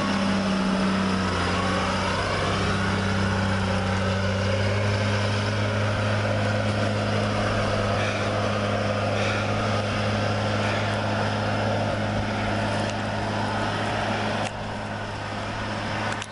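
A vehicle engine running steadily, with a brief rise in pitch about a second in and a slight drop in level near the end.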